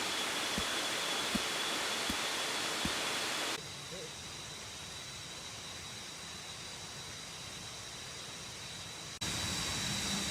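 Steady rushing noise of a waterfall, an even hiss with no pitch. It drops quieter at a cut about three and a half seconds in and comes back louder near the end, with a few faint taps in the first few seconds.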